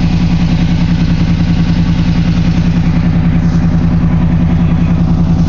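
1995 Chevy Silverado 1500's engine idling steadily through Flowmaster Super 10 mufflers with the catalytic converters still fitted, shortly after a cold start, a loud, even exhaust pulse with no revving.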